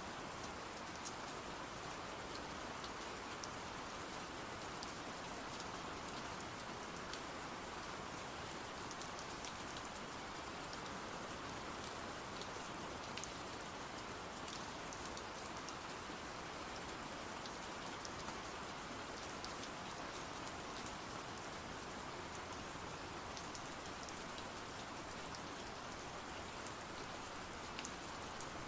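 Steady rain falling, an even hiss with scattered faint ticks of drops throughout.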